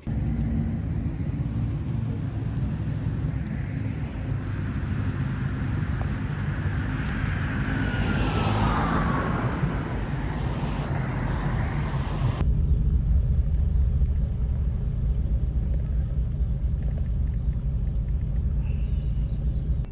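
A car or truck engine running with a steady deep rumble. About twelve seconds in the sound changes abruptly to a heavier, deeper rumble.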